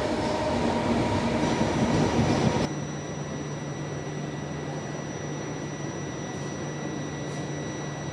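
A train running on the tracks, a loud rumble that cuts off abruptly a little over two and a half seconds in, leaving a quieter steady low hum.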